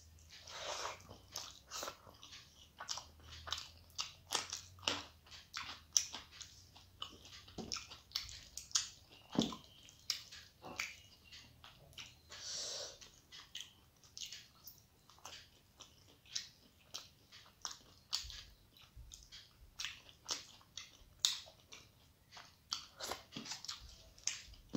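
Close-up eating sounds: a mouthful of rice and fish chewed with many wet, irregular mouth clicks and smacks, several a second. Fingers mixing rice and sauce on a steel plate.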